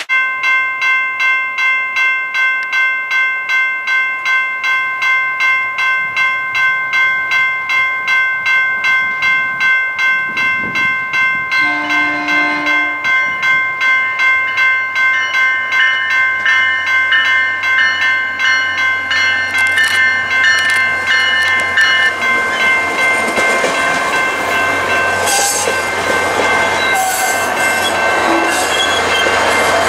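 A warning bell ringing steadily, about twice a second, as a diesel-hauled SunRail commuter train approaches. The train's horn sounds briefly about 12 seconds in. From about two-thirds of the way through, the train passes close and its engine drone and wheel and rail rumble grow loud and cover the bell.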